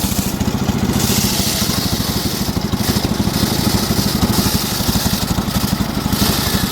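Engine driving a homemade circular sawmill, running steadily with a fast, even pulse, over a high hiss that swells and fades several times.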